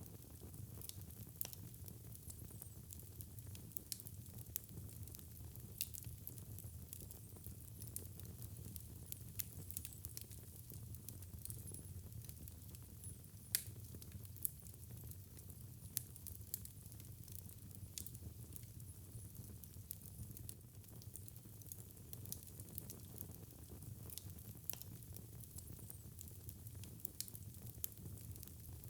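Wood fire burning in a fireplace: a low steady rumble of flames with irregular crackles and pops, one louder pop about halfway through.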